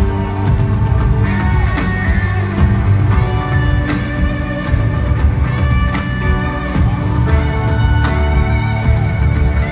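Live rock band playing a loud instrumental passage: electric guitar with gliding notes over a steady drum beat and heavy bass.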